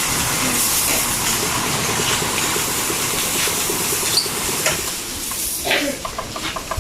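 Pressure washer spraying the scooter, a steady hiss of water with the pump's rapid pulsing underneath, easing off about five and a half seconds in.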